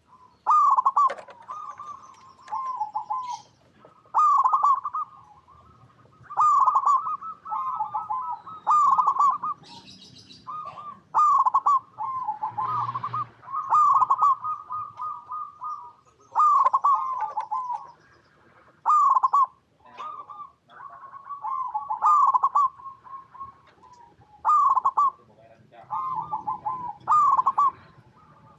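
Zebra doves (perkutut) singing their quick, bubbling coo phrases over and over, a new phrase every second or two and at times overlapping. Short high chirps sound between the phrases.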